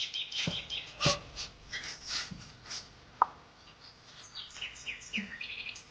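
Small birds chirping in short, repeated high calls, with a run of quick descending chirps near the end.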